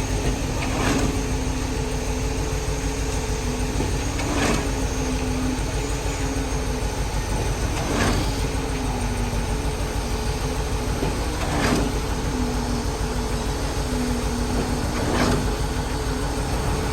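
Cement mixer truck running steadily, with a swishing sound that comes back regularly about every three and a half seconds.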